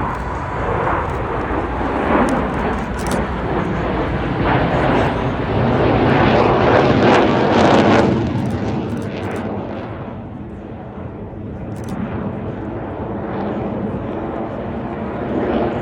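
A fixed-wing aircraft flying past. Its noise builds to a peak about seven seconds in, then fades.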